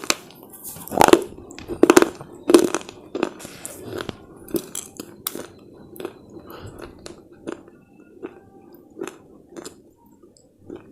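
Close-up crunching as chips of slate are bitten and chewed: loud sharp crunches about once a second over the first three seconds, then quieter, sparser chewing crunches that thin out toward the end.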